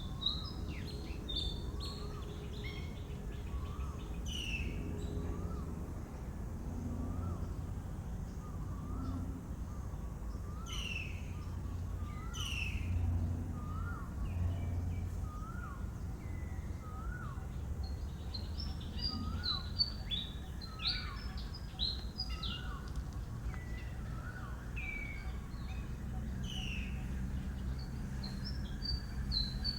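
Several birds calling: a short hooked note repeated about once a second, mixed with high chirps and quick downward-sweeping whistles, over a steady low rumble of background noise.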